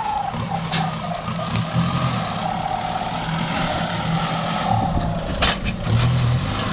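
Kubota diesel tractor engine running under load while plowing, its note swelling and easing, with a sharp knock about five and a half seconds in.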